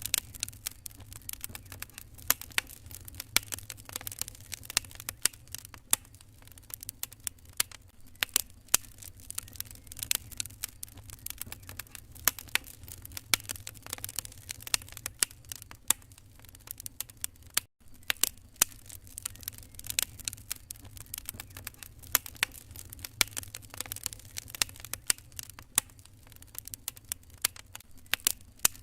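Wood fire crackling in a fireplace: dense, irregular sharp pops and snaps over a steady low rumble, with a momentary break in the sound about two thirds of the way through.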